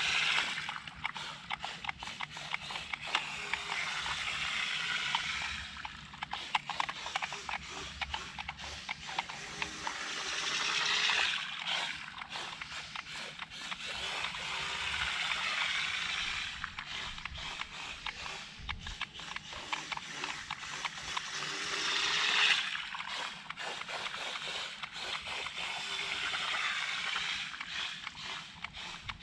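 Small homemade motorized can boat running across water, a hissing motor-and-spray noise that swells and fades several times as the boat comes near and moves away.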